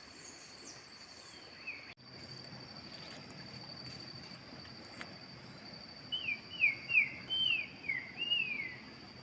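Steady high-pitched insect trilling with outdoor ambience, and a bird singing a quick series of about six falling whistled notes in the second half.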